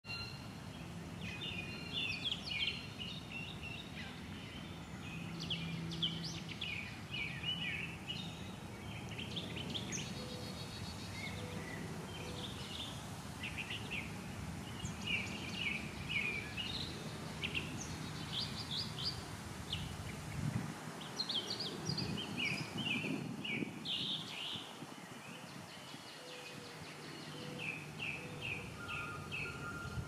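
Wild songbirds chirping and singing in short repeated phrases over a faint low outdoor rumble.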